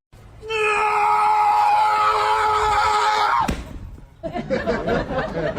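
A long, high-pitched cry or scream, held at a nearly steady pitch for about three seconds and then cut off suddenly, followed by softer, choppy vocal sounds.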